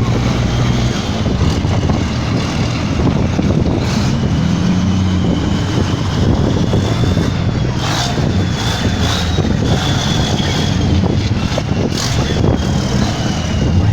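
Racing trucks' big diesel engines running hard, a loud steady low rumble with a thin high whistle that drifts up and down over it.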